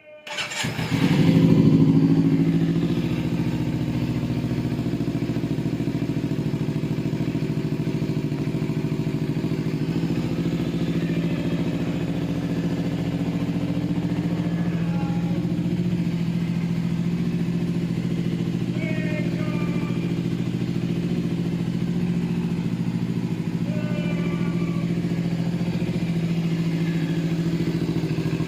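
Superbike engine with an Akrapovic exhaust starting from cold. It catches at once and flares up briefly in the first couple of seconds, then settles into a steady, even idle.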